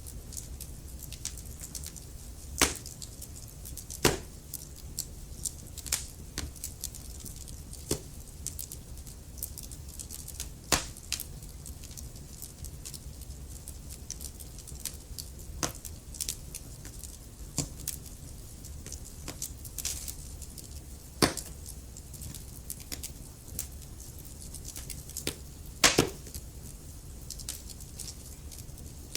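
Wood fire crackling in a fireplace: irregular sharp pops and snaps over a low steady rumble, with a handful of louder pops scattered through, the loudest a little before the end.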